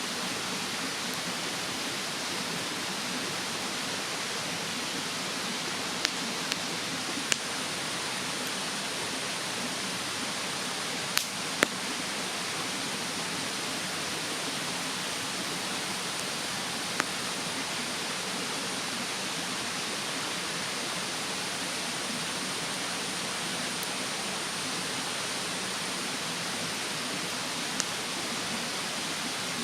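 Wood fire in a bonfire stand crackling, with about seven sharp pops at irregular intervals, over the steady rushing of a mountain stream.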